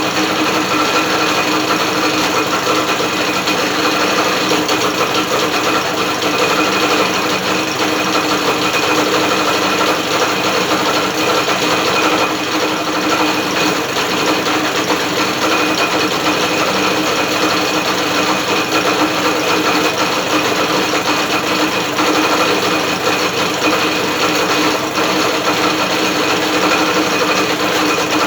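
Electric drill spinning a British Seagull outboard motor's drivetrain, a steady mechanical whir with several held tones. The owner judges it not to be sounding very healthy.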